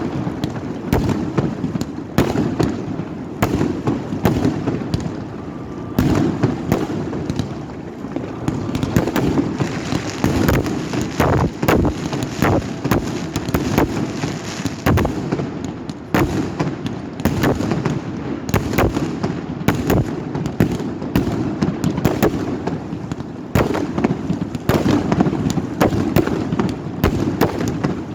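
Fireworks going off in a dense, continuous barrage: many overlapping bangs and cracks over a steady rumble of booms.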